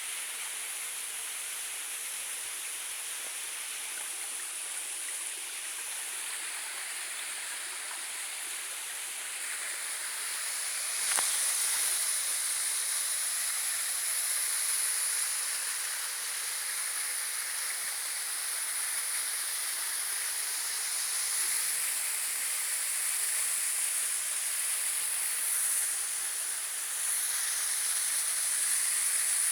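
Running water of a stream or waterfall, a steady hiss that grows a little louder about a third of the way in.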